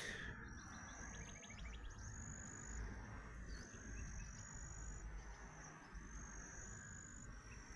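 Repeated high, drawn-out whistling calls of creekside wildlife, each about a second or two long and gliding slightly, with a brief rapid ticking trill about a second in, over a steady low rumble on the microphone.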